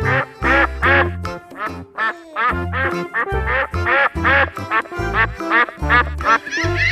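Ducks quacking in a quick, steady run of short calls, about two a second, over background music with a thumping beat.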